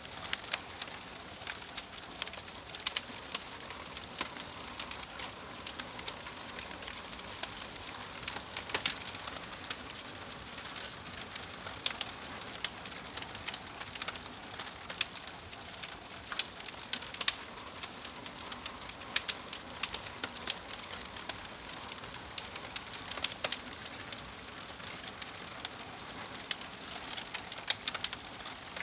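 Fire crackling: a steady hiss broken by irregular sharp pops and snaps.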